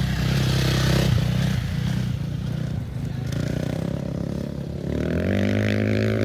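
Off-road racing engine running steadily, with a rush of noise about a second in. About five seconds in its pitch climbs steeply as it revs up and accelerates.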